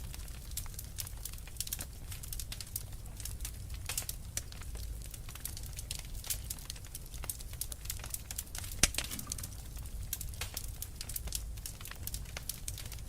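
Wood fire burning in a fireplace: continuous dense crackling with a low rumble of the flames, and one louder pop about nine seconds in.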